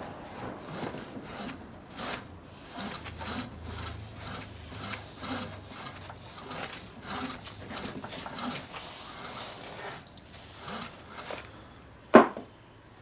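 Repeated hand scrubbing strokes, about two a second, of an abrasive rubbing rust off metal lathe parts. The strokes stop shortly before the end, followed by one sharp knock.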